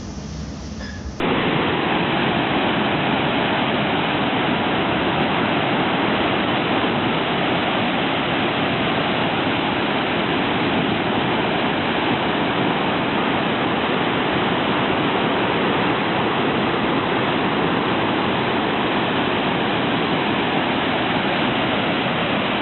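Steady, dense roar of typhoon wind and rain, starting abruptly about a second in.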